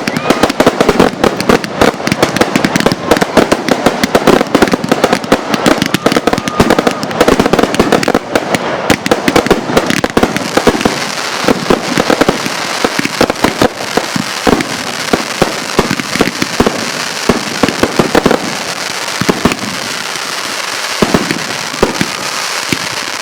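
Consumer fireworks going off: a rapid barrage of bangs and cracks for about ten seconds, then thinning to scattered bangs over a steady crackling hiss.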